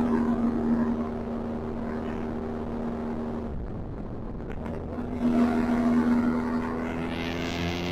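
Benelli TRK 502 X's parallel-twin engine through an Arrow exhaust with the dB killer removed, giving a deep note while riding. It holds a steady pitch, eases off for a moment a few seconds in, then pulls again, with the pitch rising near the end.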